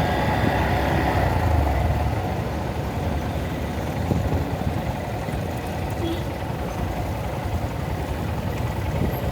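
Honda Monkey's small single-cylinder engine running at low revs in slow, jammed traffic, with the steady noise of other vehicles around it.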